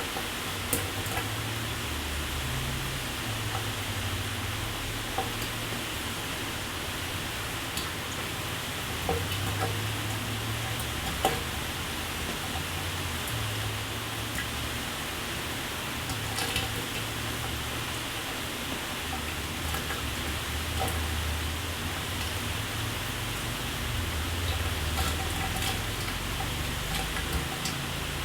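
Shower water running: a steady hiss of spray with scattered sharp ticks of drops and splashes over an uneven low rumble.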